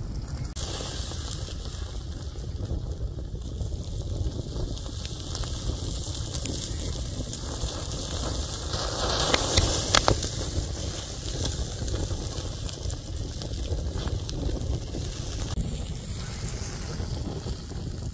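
Wood campfire crackling, a steady hiss scattered with small pops, growing louder and busier for a moment about halfway through.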